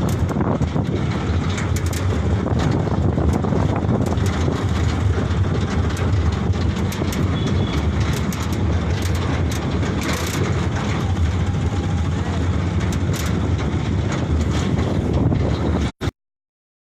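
Light truck on the move: a steady low engine-and-road rumble with scattered rattles and knocks, which cuts off abruptly near the end.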